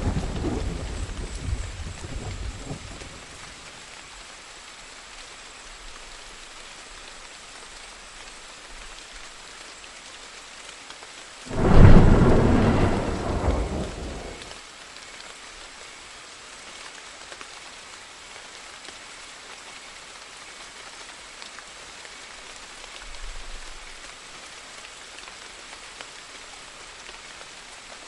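Steady rain falling in a thunderstorm. A rumble is fading out at the start. About twelve seconds in, a loud clap of thunder breaks suddenly and rolls away over about three seconds, and a faint low rumble follows near the end.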